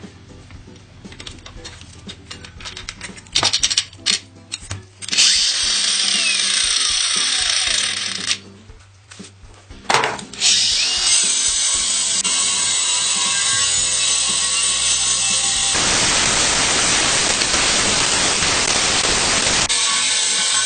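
Power tool running under load: light clicks and knocks at first, then about five seconds in it runs for some three seconds, stops briefly, and runs again steadily for about ten seconds.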